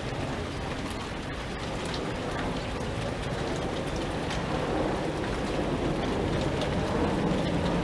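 Steady heavy rain falling, with individual drops ticking sharply on a hard surface and a low rush beneath; it grows louder over the second half.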